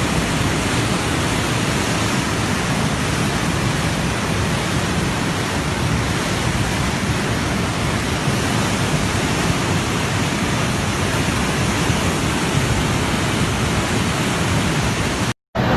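Heavy rain falling in a steady, even hiss, with no breaks until it cuts out abruptly for a moment near the end.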